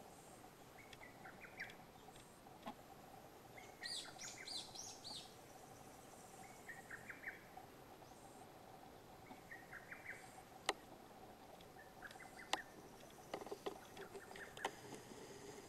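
Faint bird song: a short phrase repeated every two to three seconds, with a higher, louder burst of song about four seconds in. A few sharp clicks in the second half.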